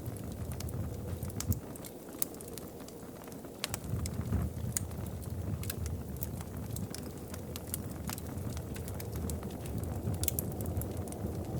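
Wood fire crackling in a fireplace: scattered sharp pops and snaps over a low steady rumble, which dips for a second or two early on and then returns.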